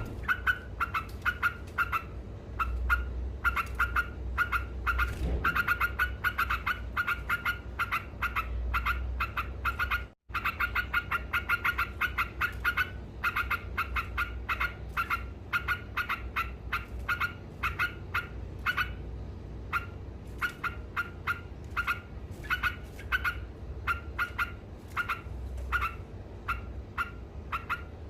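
Sooty-headed bulbul (trucuk) in long, continuous 'ngekek' chattering: short sharp notes repeated about three times a second without pause. It cuts out for a moment about ten seconds in.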